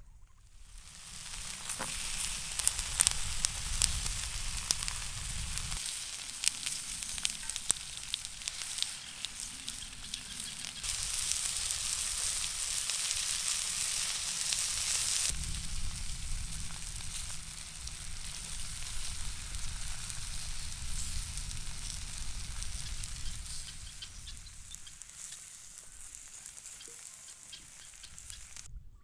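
Food frying in a pan: a steady sizzle with many scattered pops. The sizzle swells louder for a few seconds in the middle, then settles.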